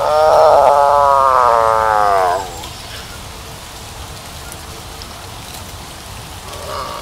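Tiger calling: one long, pitched call that falls in pitch at its end and stops about two and a half seconds in. A steady hiss follows.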